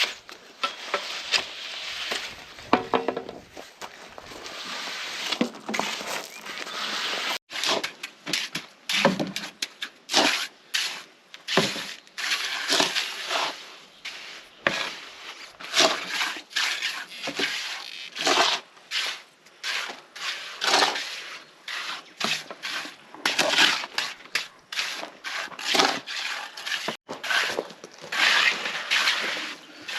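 Repeated scraping and crunching of a tool working through coarse concrete mix, in irregular strokes about one a second. The sound breaks off abruptly twice.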